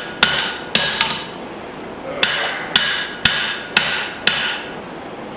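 Hand hammer blows forging a hot spring-steel hatchet head, each strike ringing briefly: three quick blows, a short pause, then five more at about two a second.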